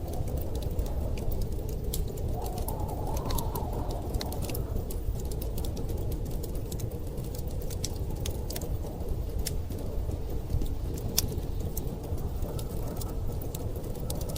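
Wood fire crackling with scattered sharp pops and snaps, over a steady low rumble of blizzard wind.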